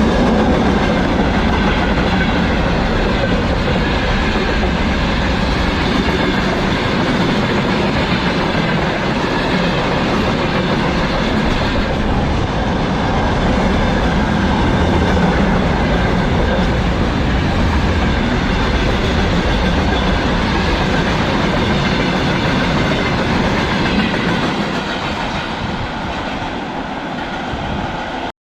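Freight train behind a VL11 electric locomotive rolling past close by, the wagons' wheels clattering steadily over the rails. The noise eases over the last few seconds and then cuts off abruptly.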